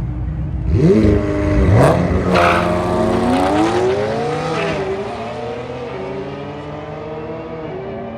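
Car engine launching hard at a drag strip and accelerating through the gears: its pitch climbs steeply, breaks at a gear change near two seconds in, climbs again, then drops and fades as the car pulls away.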